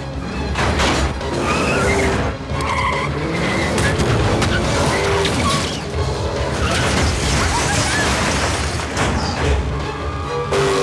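Film car-chase sound mix: car engines and skidding, squealing tyres over driving score music, with heavy impacts of vehicles colliding.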